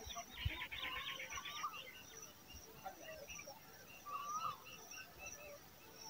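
Birds calling: a rapid chattering run of notes in the first second and a half, short rising-and-falling whistled notes about one and a half and four seconds in, and a faint high note repeating throughout.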